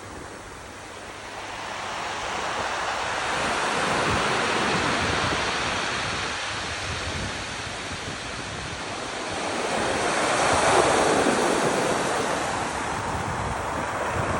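Ocean surf: waves washing in as a steady rush that swells twice, loudest about three quarters of the way through.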